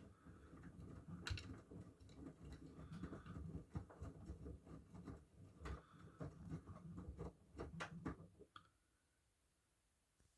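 Miele washing machine running faintly, a low rumble with irregular clicks and ticks, stopping suddenly about eight and a half seconds in.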